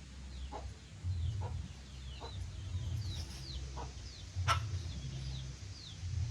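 Young fowl peeping over and over in short, high, falling chirps, with a few soft clucks and a sharp click about four and a half seconds in, over a low steady rumble.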